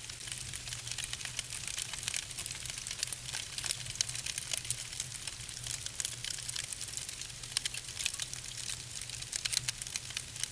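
Wood logs burning in a fireplace, crackling with a dense, irregular stream of small sharp pops and snaps over a faint, steady low hum.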